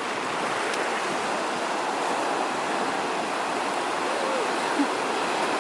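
Steady wash of sea surf on the shore, a continuous even rush with no breaks.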